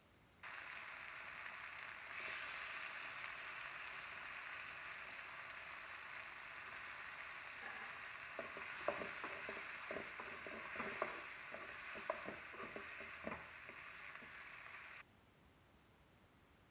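Chopped tomatoes, onions, garlic and dried red chillies sizzling in hot oil in a pan. From about eight seconds in a spoon stirs and scrapes against the pan in a run of sharp clicks. The sizzle starts just after the beginning and cuts off suddenly near the end.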